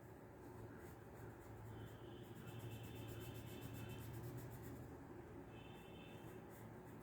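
Faint scratching of a pencil making quick small strokes on paper, over a low steady hum.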